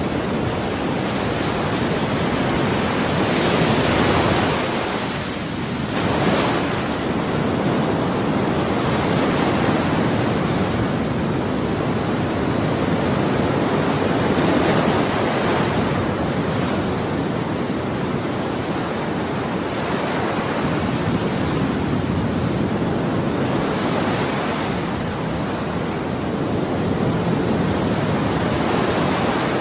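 Ocean waves breaking and washing on a shore, a continuous surf rush with gentle swells every few seconds.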